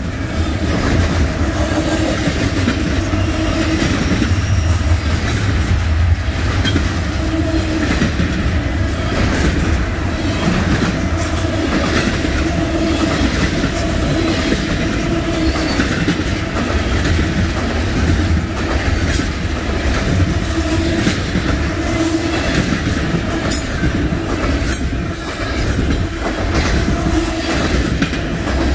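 Double-stack intermodal freight train's container well cars rolling past close by: a loud, steady rumble with the repeated clack of wheels over rail joints.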